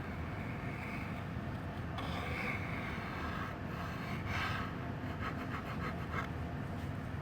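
Airbrush spraying in hissing bursts: a short one, then a longer spray, then a run of quick short puffs, over a steady low hum.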